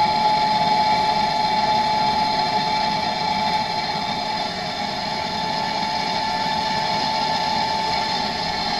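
Gas blowtorch burning steadily with a constant hiss and a high, even tone, heating a copper solder fitting on water pipe.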